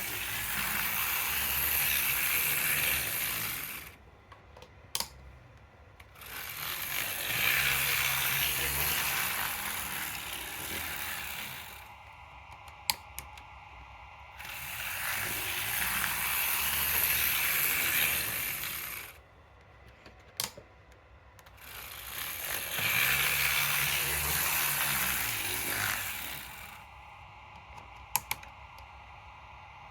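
Tetsudo Mokeisha 4500-class model steam locomotive running on DC, its motor and gearing whirring with the clatter of wheels and rods. The sound swells and fades four times as the loco speeds up and slows to a stop. Each stop brings a pause of about two seconds with a few sharp clicks.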